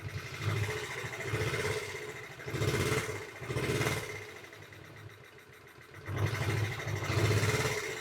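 Honda Z50 Mini Trail's small single-cylinder four-stroke engine idling, its sound swelling and falling about once a second, with a quieter stretch a little past the middle.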